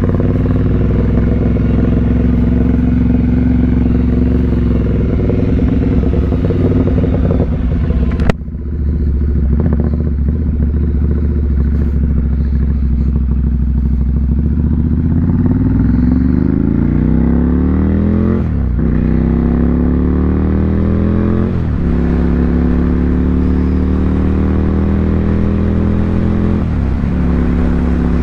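Ducati Monster 797's air-cooled L-twin through an SC Project exhaust, running steadily, with a sharp click about eight seconds in. Later the engine pulls up in pitch twice, each pull cut short by a gear change, then settles to steady running with one more small drop in pitch near the end.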